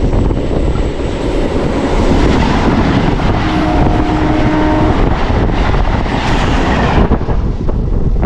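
A MEMU electric train passing close by with a loud running rumble. A horn sounds briefly about halfway through, and the noise drops off sharply near the end as the train clears.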